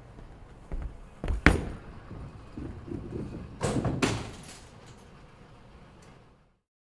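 A few sharp knocks or thumps over a low rumble, the loudest about one and a half seconds in and another cluster about four seconds in.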